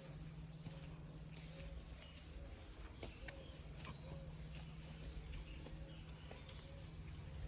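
Several birds chirping and singing at a water spring: scattered short high chirps and trills, with a faint short call repeating about every second, over a steady low rumble and hum.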